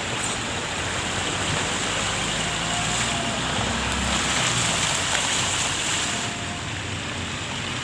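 Steady rush of floodwater on a flooded street, with vehicles driving through it.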